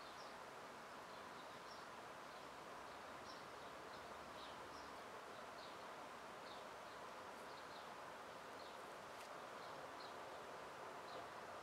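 Faint outdoor background: a steady low hiss with scattered brief, high chirps of distant small birds.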